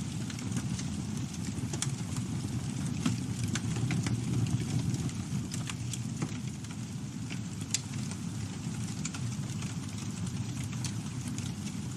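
Campfire burning: a steady low rumble with irregular sharp crackles and pops from the burning wood.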